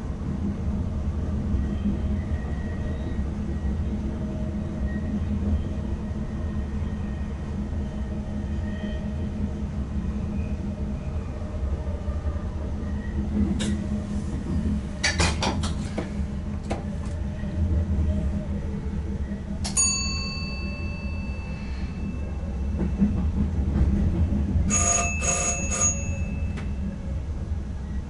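Inside the cab of an ICM electric multiple unit running: a steady low rumble from the train, with a quick run of clicks about halfway through as the wheels pass over switches. A bell rings once with a fading tone about two thirds of the way in, then rings in a quick series of strokes a few seconds later.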